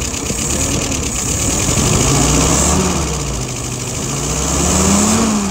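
Engine on a freshly restored Carter WO-539S carburetor, revved by hand at the throttle linkage. Engine speed climbs to about two and a half seconds in, eases off, climbs higher to a peak near the end, then drops back toward idle.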